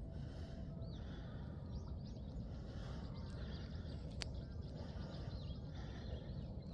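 Small birds chirping and calling again and again over a steady low rumble of outdoor ambience, with one sharp click about four seconds in.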